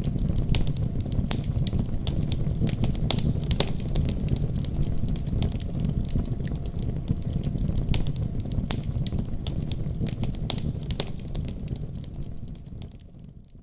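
Fireplace fire crackling and popping over a steady low rumble of flames, fading out near the end.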